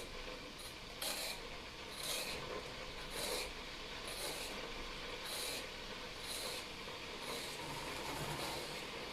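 A vegetable peeler scraping the skin off a cucumber in short strokes, about one a second.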